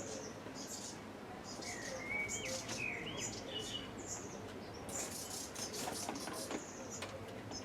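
Small birds chirping and calling: repeated short high chirps with some gliding, hooked call notes.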